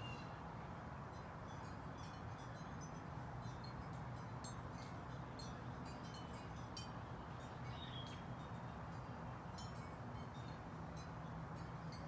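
Songbirds chirping, many short high notes scattered throughout, over a steady low background hum.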